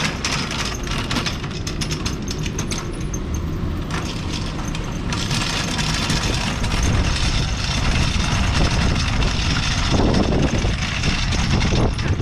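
Car engine running, with a run of clicks and rustles in the first few seconds and a steady low rumble.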